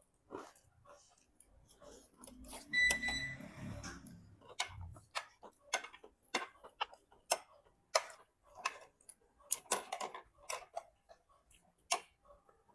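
Kitchen utensils clicking and knocking, irregular sharp clicks about once a second. There is a brief low rumble and a short high beep about three seconds in.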